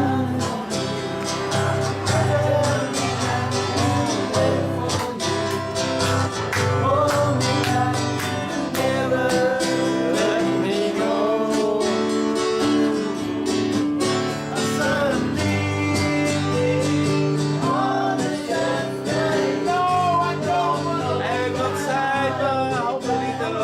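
Strummed acoustic guitar with a singing voice, a country-style song.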